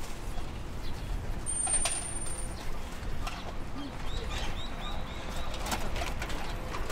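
Birds calling over a steady low street rumble: a thin high note lasting about a second near the start, then a quick run of short chirps about halfway through.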